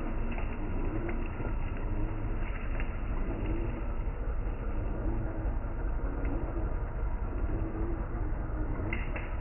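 Traxxas TRX-4 RC crawler's brushless motor and locked drivetrain running as it climbs a short hill, a steady low rumble with a wavering mid-pitched whine that comes and goes.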